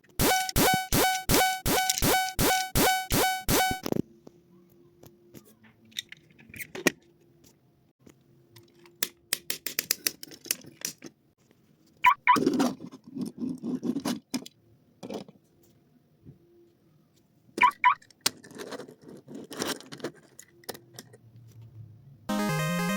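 A loud pulsing electronic tone, about three or four pulses a second, for roughly four seconds. It is followed by scattered light clicks and rattles with two short chirps, and a steady electronic tone about a second long near the end.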